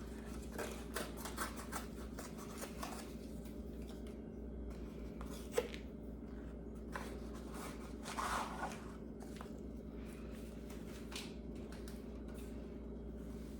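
Rustling, tearing and clicking of Rice-a-Roni boxes and their packets being opened by hand, with one sharp tick about five seconds in, over a steady low hum.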